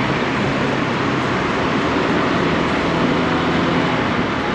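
Honda Click 160 scooter's single-cylinder engine running steadily at speed in traffic, with a dense, even rush of wind and road noise over a low steady hum.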